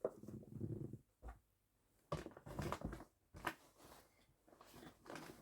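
Faint rustling and a few soft knocks from items being handled and put down.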